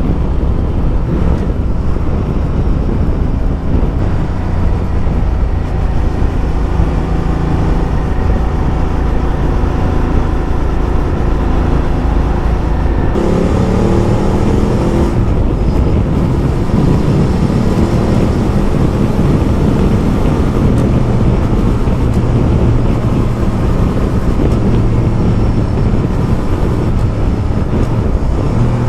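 Ducati Multistrada motorcycle engine running steadily at road speed, with wind and road noise. About halfway through the engine note changes and rises in pitch as the bike accelerates.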